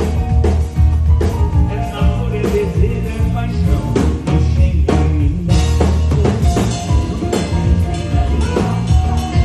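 Live band playing at a soundcheck: drum kit with regular drum hits over a heavy bass line and pitched instruments.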